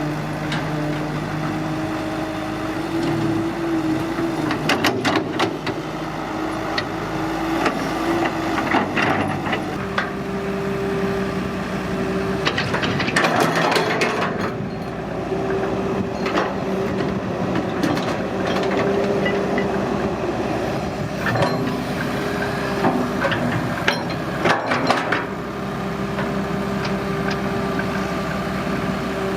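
Diesel engine of a hydraulic excavator running steadily; its pitch steps up about a third of the way through. Scattered clanks and knocks of the machine working come over it, heaviest in two clusters about five and thirteen seconds in.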